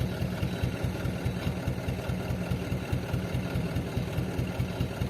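Truck engine idling steadily with a rapid, even low throb.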